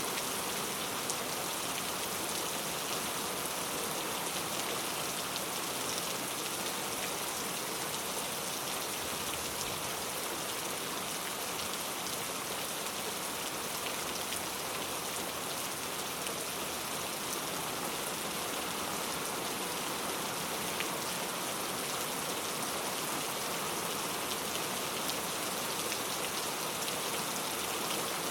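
Steady rain falling on surfaces, a dense even hiss with scattered individual drop ticks.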